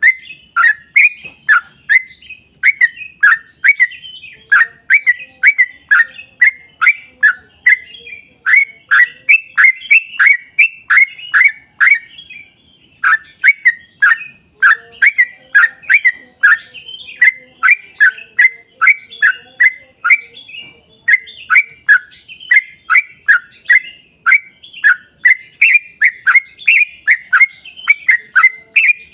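Yellow-vented bulbul (trucukan) singing a long, fast run of bubbly, repeated notes almost without a break, pausing briefly about twelve seconds in.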